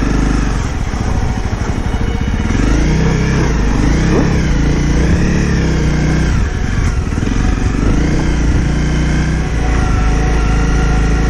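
Honda CRF250 Rally's single-cylinder engine running as the motorcycle is ridden, its revs rising and falling.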